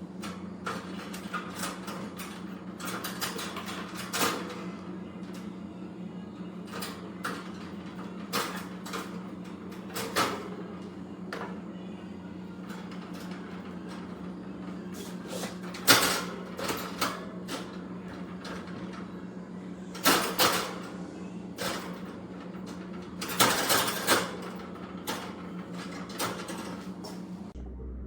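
Irregular clicks, knocks and clatters over a steady low hum, with the sharpest knocks about halfway through and a cluster near the end.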